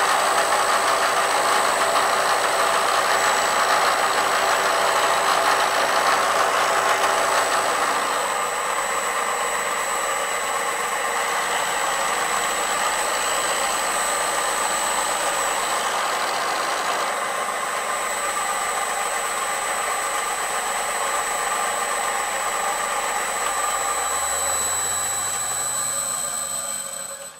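Bridgeport milling machine running steadily through a final milling pass on steel, with a constant high whine over the machine noise. The sound thins about eight seconds in and dies away at the very end.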